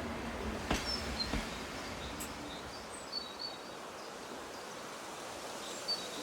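Outdoor countryside ambience: a steady hiss with a few short, high bird chirps scattered through it, and a sharp click a little under a second in. A low rumble fades away over the first second or so.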